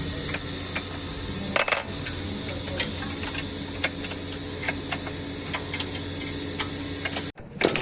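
Hand tools clicking and clinking on metal as exhaust bolts are worked loose, in short irregular ticks over a steady low hum.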